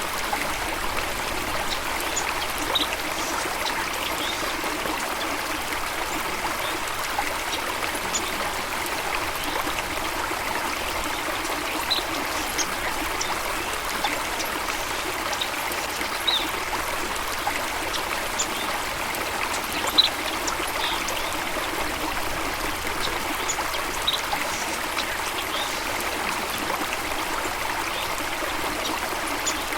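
Flowing stream or small waterfall running steadily, with short, sharp high sounds every few seconds.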